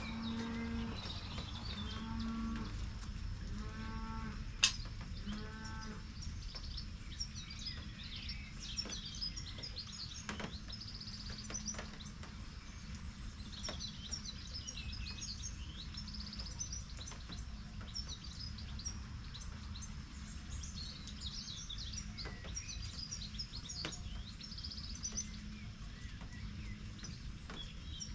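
Cattle lowing in a few short calls during the first six seconds, then birds chirping over a steady low rumble. A single sharp click a little under five seconds in.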